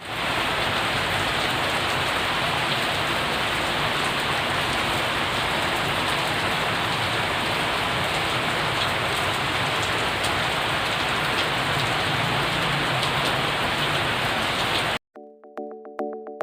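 Steady, even rain. It cuts off suddenly near the end, and a plucked melody of background music starts.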